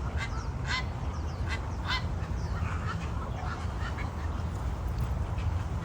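Ducks quacking in a series of short, sharp calls over a steady low background rumble.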